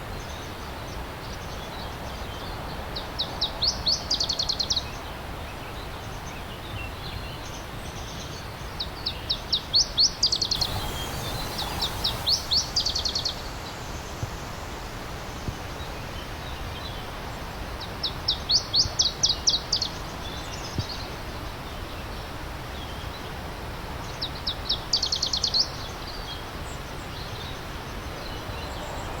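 Stream water running steadily, with a songbird repeating a short, fast phrase of rapid high notes about five times, every few seconds.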